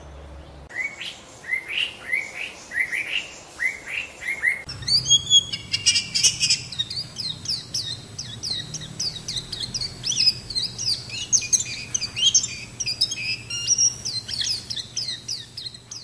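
Birdsong: a run of rising whistled notes, then from about five seconds in a dense, high-pitched twittering of Japanese white-eyes that carries on to the end.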